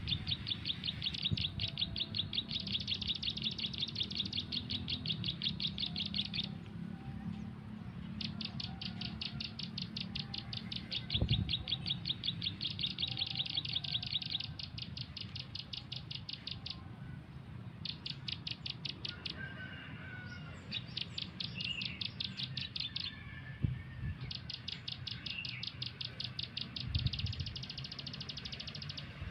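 Bird call in long runs of rapid, evenly spaced high chirps, each run lasting a few seconds with short breaks between. A few fainter, lower chirps come in during the second half.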